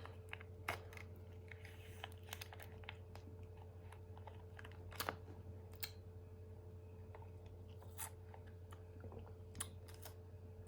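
Faint scattered clicks and crinkles from handling a plastic-foil juice drink pouch and its straw, a sharp tick every second or two, over a low steady hum.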